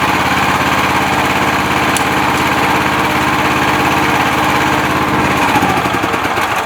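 Single-cylinder petrol engine, a Honda GX450-type clone, of an MTZ Belarus walk-behind tractor running steadily under test; about five seconds in its note starts to waver as the engine speed changes.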